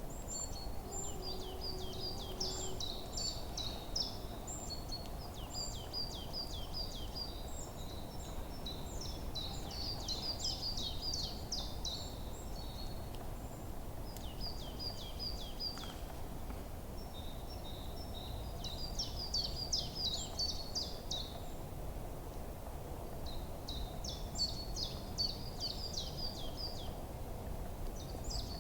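Forest birdsong: small birds singing rapid high chirps and trills in bouts of a few seconds, with short pauses between, over a steady low background noise.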